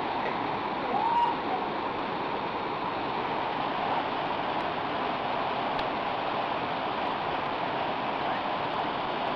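Waterfall pouring steadily into a pool, a constant rushing of falling water. There is a short rising-and-falling call about a second in.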